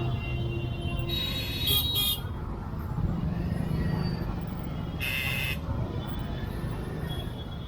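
Busy street traffic with vehicle horns honking over a steady engine rumble: a few short toots about a second in, and one longer honk about five seconds in.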